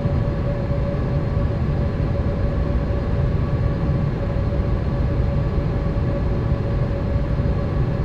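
Boeing 787 cabin noise in flight: a steady rumble and rush of engine and airflow, with a thin constant whine running through it.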